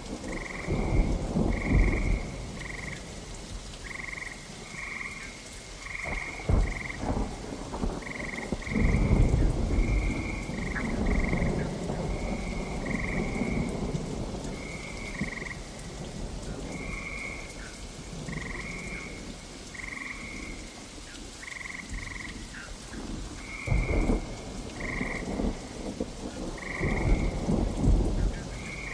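Steady rain with rolls of thunder, the loudest about a second in, around nine seconds and near the end. Frogs call over it in short, high calls, roughly one a second.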